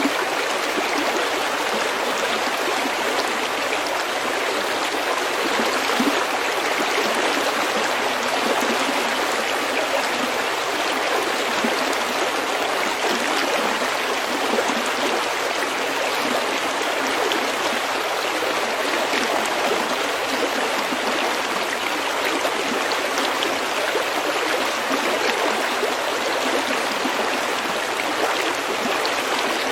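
Snowmelt stream flowing steadily over pebbles: a continuous, even rush of running water with soft gurgling and no breaks.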